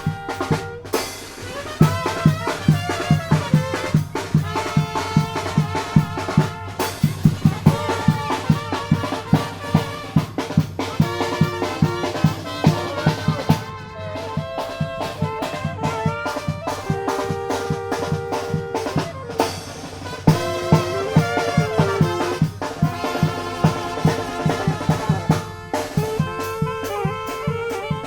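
Tamborazo band playing: brass carrying the melody in held and stepping notes over a fast, steady beat of tambora bass drum and snare.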